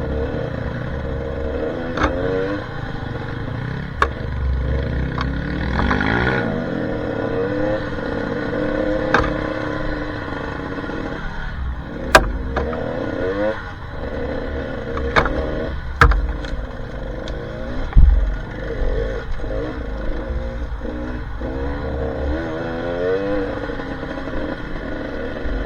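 Dirt bike engine revving up and down while riding a rough trail, with several sharp knocks and clatter from the bike over the ground and a low rumble of wind on the microphone.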